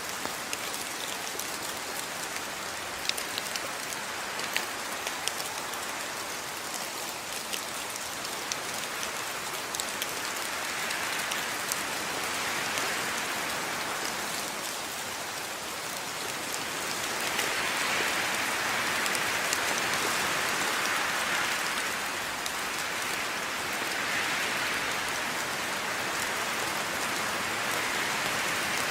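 Steady rain falling, with single drops ticking sharply in the first third. The rain then swells heavier in waves through the middle and toward the end.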